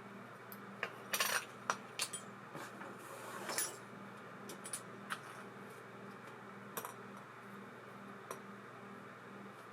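Small metal reel parts clicking and clinking as they are handled, several quick clinks about a second in and a few scattered ones later, over a faint steady hum.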